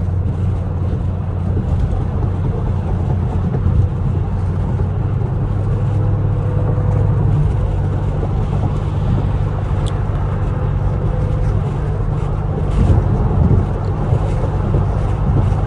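Chevrolet Camaro SS V8 with a muffler delete, heard from inside the cabin while cruising: a steady low exhaust drone.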